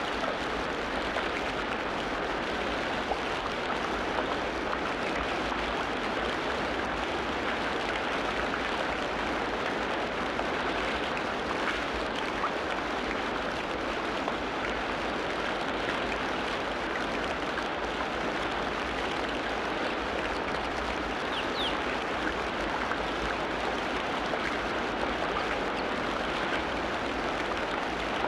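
Steady rush of a stream's running water, with a couple of faint, brief bird chirps.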